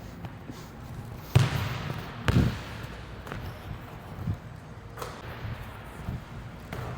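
A basketball being shot and bounced: a sharp hit a little over a second in, a heavy bounce about a second later, then several fainter bounces.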